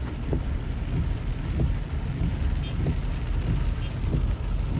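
Steady low rumble of a motor vehicle driving, with wind buffeting the microphone.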